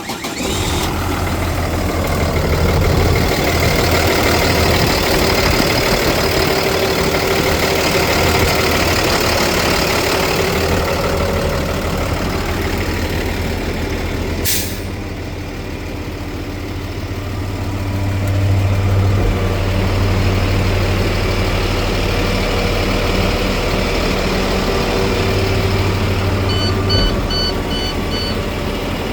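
A 2019 International dump truck's diesel engine starts and runs at a steady idle. There is a short air hiss about halfway through, and a quick run of about five high beeps near the end.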